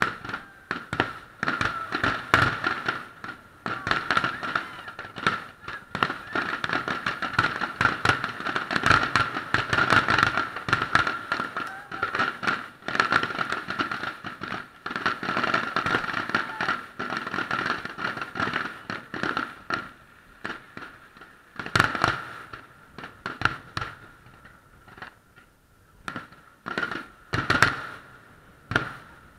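Fireworks show: a dense barrage of shell bursts and crackling for about the first twenty seconds, thinning to a few single bangs near the end.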